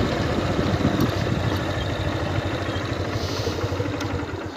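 Motorcycle engine running at low speed, gradually getting quieter and dropping away near the end.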